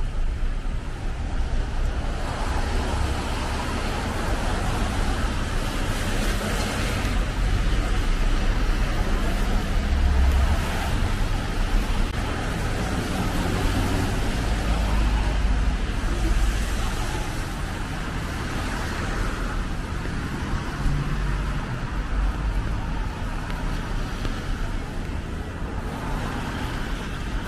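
Road traffic: cars passing one after another with tyre hiss over a steady low rumble, swelling several times as vehicles go by.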